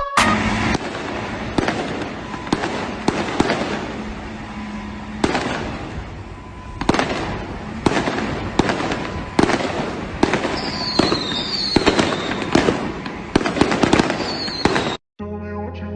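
Firecrackers going off: a dense crackling with many sharp bangs at irregular intervals, and a few short falling whistles near the end. The sound stops abruptly about a second before the end.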